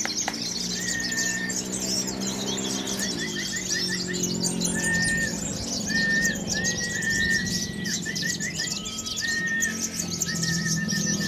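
Many caged competition songbirds singing at once, a dense run of fast high chirps and twitters with short whistled notes repeated over and over. A low steady hum runs underneath.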